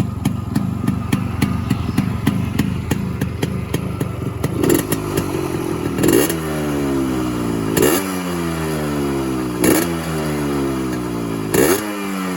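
Yamaha RX100's 98 cc two-stroke single-cylinder engine idling with its even beat. From about five seconds in, the throttle is blipped several times, roughly every two seconds, and each rev sinks back slowly. The engine has been rebored to take a 2 mm oversize piston and has a small cut in the muffler, which the owner says makes it sound slightly different from stock.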